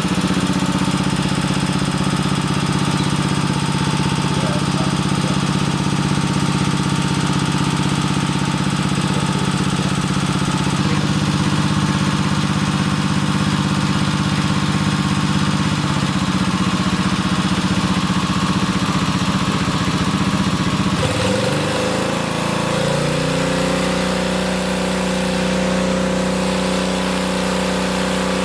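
An engine or motor running steadily. About three-quarters of the way through, its pitch wavers and settles on a different steady note.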